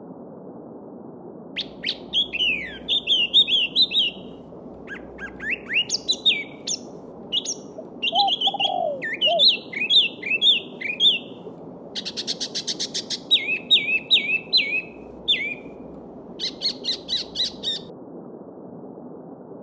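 Small songbirds singing in quick, varied chirping phrases, with a fast rattling trill about twelve seconds in, over the steady rush of a flowing stream.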